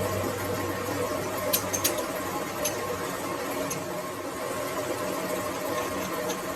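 Metal lathe running steadily, with a few sharp metallic clicks between about one and a half and three seconds in.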